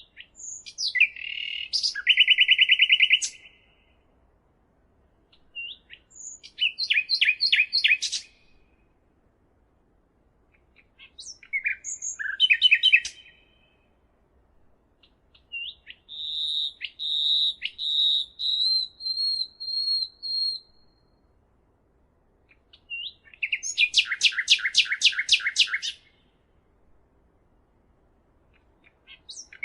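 A songbird singing five separate phrases a few seconds apart. Most open with a short high note and run into a fast trill. The fourth phrase, near the middle, is a longer, steadier high warble.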